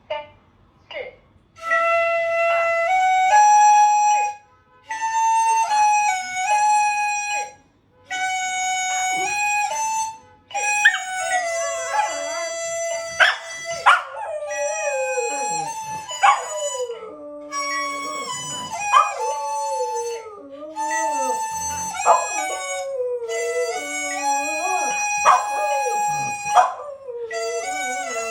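A wind instrument plays a simple tune in held, stepped notes with short pauses. A schnauzer howls along with it: wavering, sliding howls join about ten seconds in and carry on over the melody.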